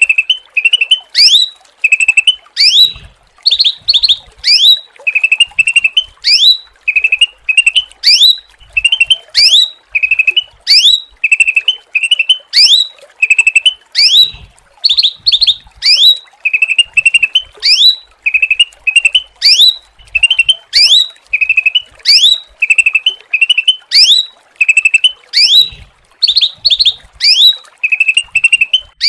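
A cucak ranting songbird calling over and over: sharp upward-sweeping whistled notes alternate with short buzzy chirps, about two a second, loud and without a break.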